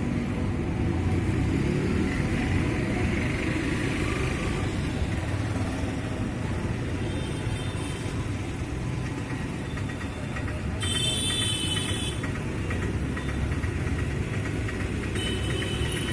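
Steady low rumble of an idling engine, with a brief high-pitched squeal about eleven seconds in.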